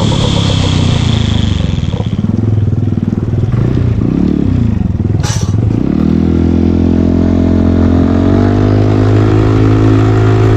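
Yamaha Cygnus X 125 scooter's single-cylinder four-stroke engine running, its revs rising and falling for a few seconds, then holding steady with a small rise later on. A brief hiss sounds about five seconds in.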